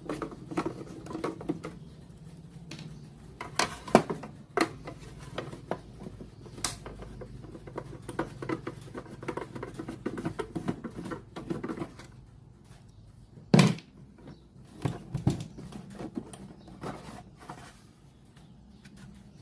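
Small clicks, taps and rustles of hands handling the plastic parts of a Sony CFS-515S radio-cassette player during repair, with a few sharper knocks. The loudest knock comes about two-thirds of the way through, and it grows quieter near the end.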